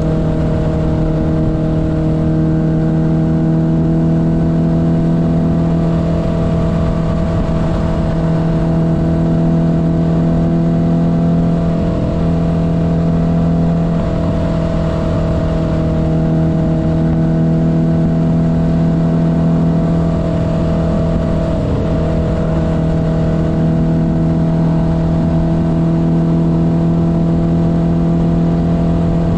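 1972 Honda CB500's air-cooled inline-four engine running steadily under way, its note holding nearly constant with only slight shifts in pitch.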